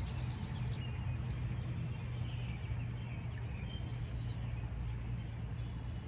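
Birds chirping faintly in short calls over a steady low hum.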